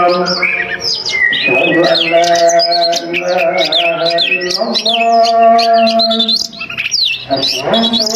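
Oriental magpie-robin (kacer) singing a continuous run of quick, varied whistles and chirps. Beneath it a man's voice holds long chanted notes, the Islamic call to prayer.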